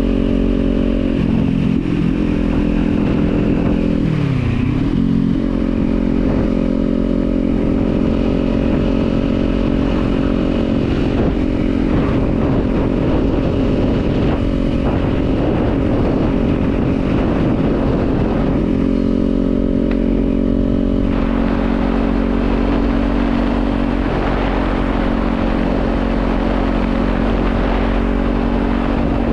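Kawasaki Z400's parallel-twin engine running steadily while the motorcycle is ridden. Its pitch dips briefly and comes back about four to five seconds in, then holds steady.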